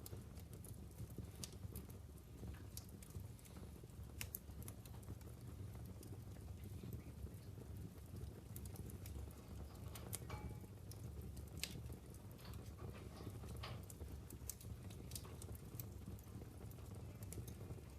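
Logs burning in a wood fireplace, crackling: irregular sharp pops and snaps over a steady low rumble of the fire.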